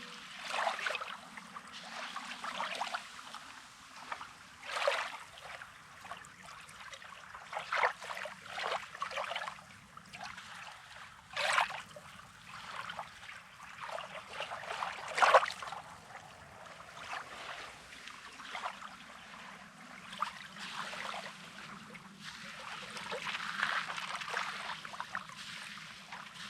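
Small sea waves lapping on a rocky sand shore: a splash and wash every few seconds, with water trickling back between them.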